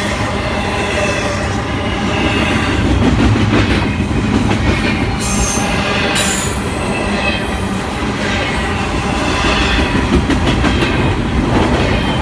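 CSX intermodal freight train's cars rolling past close by, a steady loud rumble and rattle of wheels on rail, with brief high wheel squeals about five and seven seconds in.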